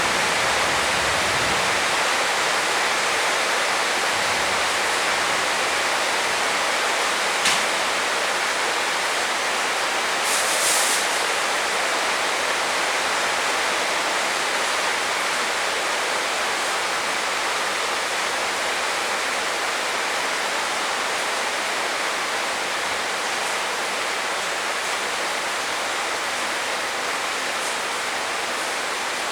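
Heavy rain falling in a steady, even hiss. A single sharp tick sounds about seven seconds in, and a brief brighter splash about ten seconds in.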